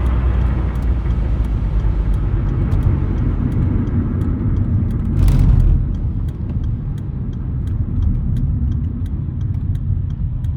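Steady low road and engine rumble of a moving car, heard from inside, with a brief louder rush about five seconds in.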